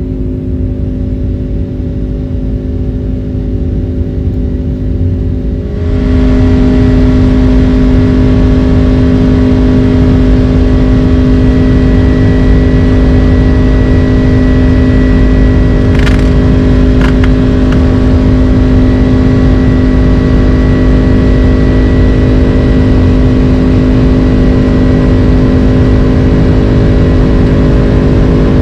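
Steady jet-airliner cabin drone from a Boeing 767-300 with General Electric CF6 engines: a constant low rumble of airflow with steady humming tones. It steps up abruptly in loudness about six seconds in, and a few short clicks come about sixteen to seventeen seconds in.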